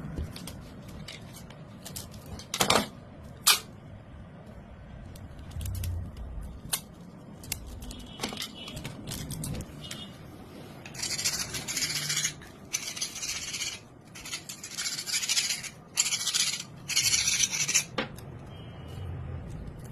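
Hand work on a motorcycle mirror. A few sharp clicks and knocks come first. About eleven seconds in follow five scraping or rubbing strokes, each about a second long, bright and hissy.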